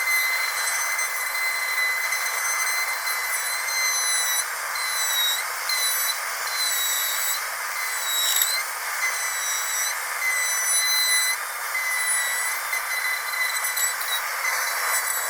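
Dentist's drill running with a steady high-pitched whine over a hiss, its pitch dipping briefly several times, about five seconds in, eight seconds in and around eleven to twelve seconds in.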